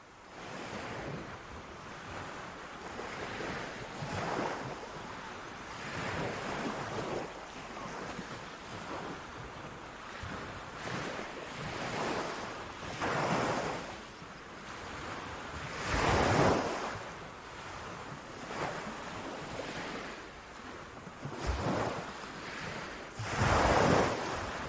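Ocean waves breaking on a shore, a steady wash of surf that swells and falls every few seconds. The biggest breakers come about two-thirds of the way through and again near the end.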